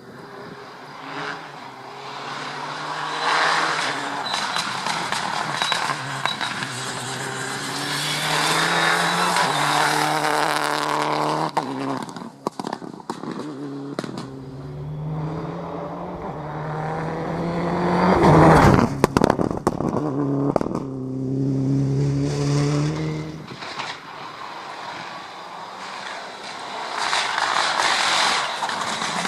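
Rally car engine revving hard through the gears, its pitch climbing and dropping at each shift, with sharp cracks on lift-off. The car is loudest as it passes about two-thirds of the way in.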